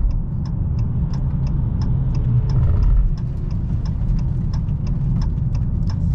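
Dodge Challenger Hellcat's supercharged 6.2-litre V8 and tyres at cruising speed: a steady low drone, with a light, regular ticking about three times a second.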